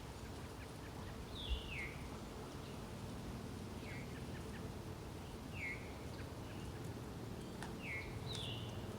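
Birds chirping, faint: short calls that slide downward in pitch, repeated every second or two over a steady low background hiss, with one soft thump about a second and a half in.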